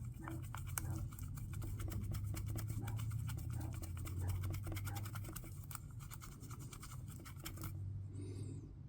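Rapid dry scratching and scrubbing as colour flakes are burnished into a silicone mold. It stops about a second before the end.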